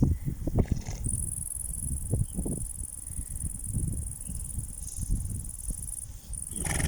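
Field insects chirring: a steady high-pitched buzz that starts about a second in, over irregular low thumps and rumble.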